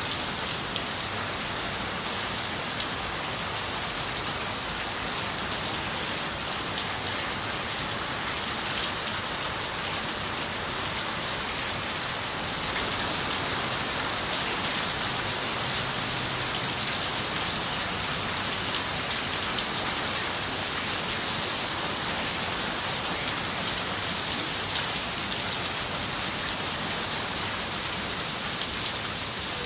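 Steady rain on a window, an even hiss with single drops clicking through it; it grows a little louder about halfway through.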